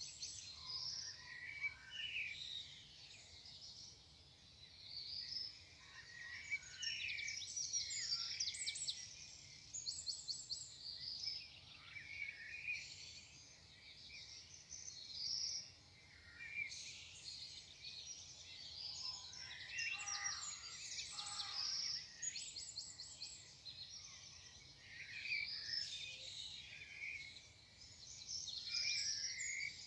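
Morning chorus of several songbirds, with many overlapping chirps, short trills and whistled phrases following one another without a break.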